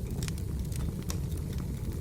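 Firewood burning: a few sharp pops and snaps over a steady low rumble.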